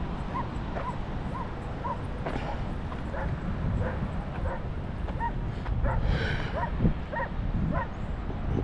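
Short, high animal calls repeated about every half second, with a longer, brighter call about six seconds in, over a steady low rumble.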